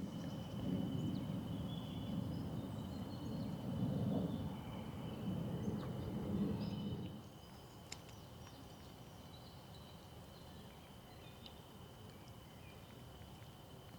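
Forest ambience: scattered faint bird chirps over a steady high thin tone. A low rumble fills the first seven seconds or so, then cuts off sharply.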